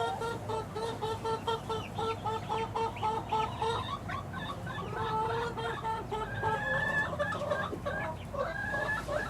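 A mixed flock of six-week-old chicks peeping and cheeping, many short calls overlapping without a break.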